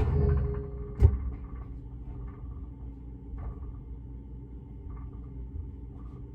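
Microwave oven running with a steady low hum, after a thud just at the start and a sharp click about a second in.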